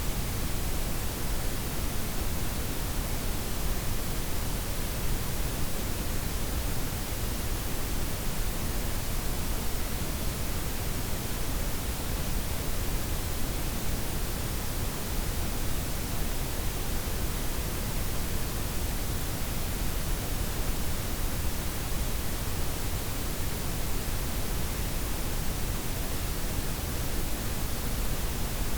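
Steady layered white, pink and brown noise with the highs softened: an even, unchanging hiss with a deep low rumble underneath.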